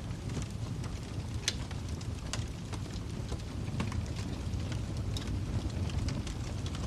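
Wood fire crackling in a fireplace: irregular sharp pops and snaps over a low, steady rumble of the burning fire, with one louder pop about a second and a half in.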